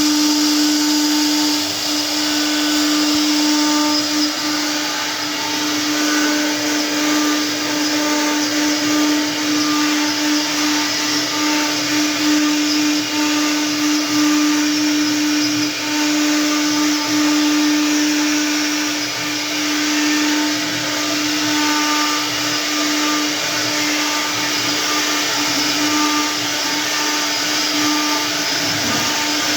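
CNC router spindle running at a steady speed while cutting stone: a constant pitched whine over a loud, dense grinding hiss that holds without a break.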